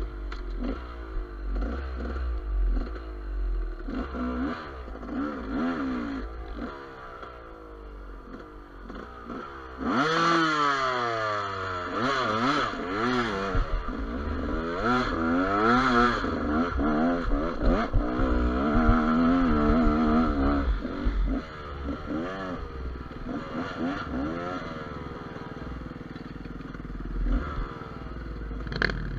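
GasGas EC200 two-stroke enduro motorcycle engine revving up and down on a trail, with the pitch rising and falling constantly. It gets much louder and busier about a third of the way in, then eases off again. Clattering knocks from the bike over rough ground and wind rumble on the microphone run underneath.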